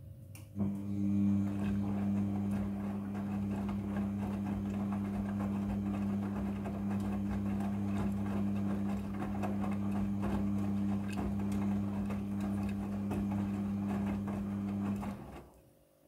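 A small electric motor switched on, running at a steady hum for about fifteen seconds, then switched off.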